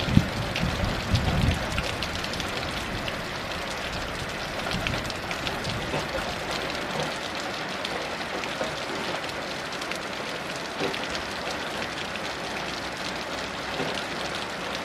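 Heavy rain falling steadily, a dense patter of drops hitting surfaces. A low rumble of distant thunder dies away in the first second or two.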